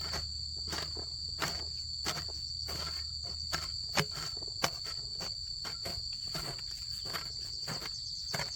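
Steady high-pitched insect chorus, with short knocks or scrapes repeating roughly twice a second; a couple of sharper ones fall about four seconds in.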